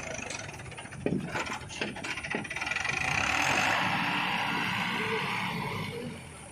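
Mahindra 595 diesel tractor working in mud. A quick run of metallic clicks and clanks comes about a second in, then a steady rushing noise that swells and drops away near the end.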